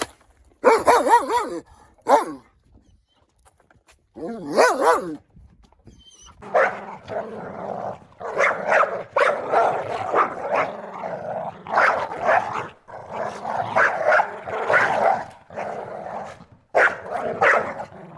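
Dog barking and vocalizing: a few short pitched calls in the first few seconds, then a long run of rapid, rough, noisy barks and growls after a short pause.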